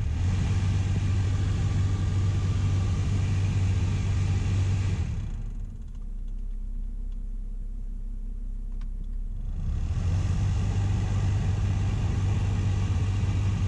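Car A/C blower fan running on high: a steady rush of air over a low rumble, which the owner suspects comes from something touching the fan blades. About five seconds in the rush drops away to a low hum, and it comes back about four seconds later.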